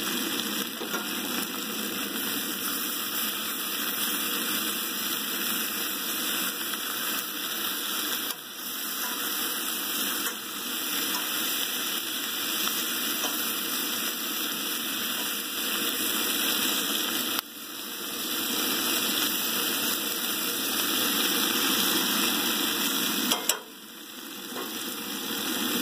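Onion, potato and pepper sizzling in bacon fat in a cast iron skillet on a propane camp stove, stirred with a fork partway through. The steady sizzle drops suddenly and builds back up twice in the second half.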